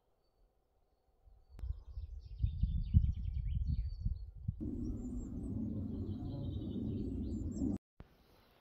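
Outdoor ambience: uneven low rumbling noise with faint bird chirps, starting about a second in and cutting off abruptly near the end.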